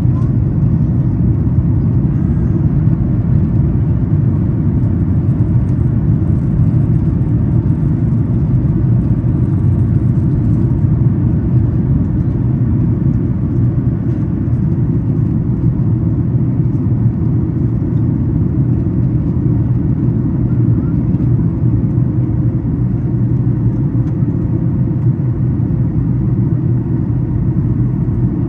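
Steady low rumble of a Boeing 737 MAX 8 climbing after takeoff, its CFM LEAP-1B engines heard from inside the economy cabin.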